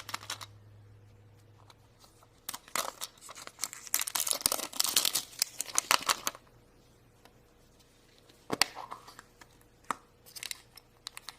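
A toy surprise package's wrapper being torn open and crinkled in a run of crackling bursts lasting a few seconds, followed by a few light clicks near the end.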